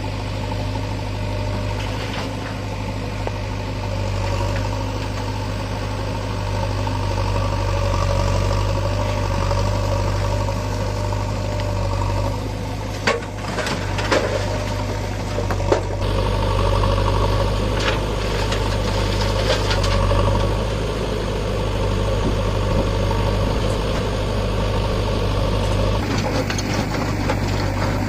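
Heavy diesel engine running steadily at a low, even drone, with a few sharp clanks about halfway through.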